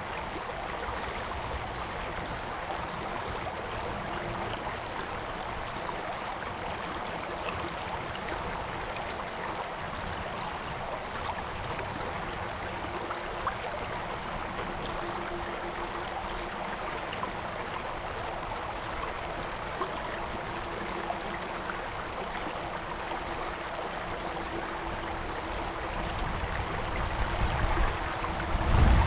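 Stream water flowing in a steady, even rush. In the last few seconds a low rumble grows and becomes louder than the water.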